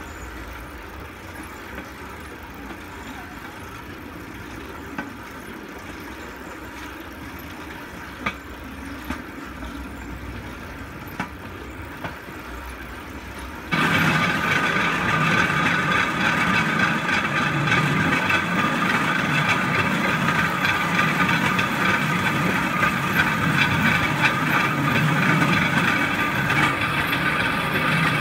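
Steel wheels of a pedal-powered rail bike rolling along railroad track: a steady rolling rumble with occasional sharp clicks. About halfway through, the sound jumps abruptly to a louder, harsher, steady rumble.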